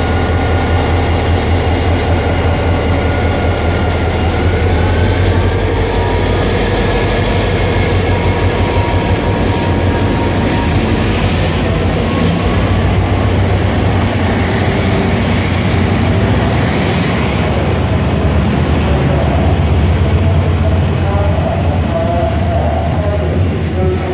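Passenger train pulling out of a station: a steady low rumble under a whine that rises in pitch as the train gathers speed, levelling off after about fifteen seconds.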